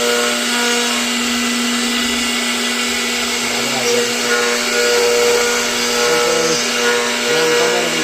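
CNC router spindle running steadily: a constant whine over a loud hiss.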